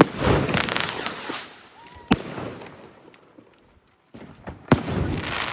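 Fireworks going off: three sharp bangs about two seconds apart. Crackling follows the first and the last bang.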